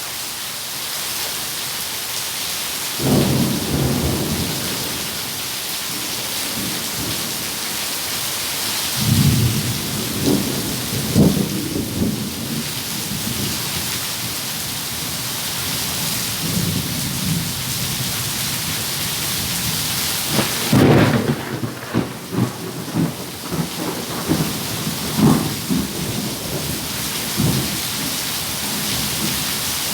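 Steady rain with thunder rumbling over it: a roll about three seconds in, another lasting several seconds from about nine seconds, and a series of sharper cracks and rumbles from about twenty-one seconds.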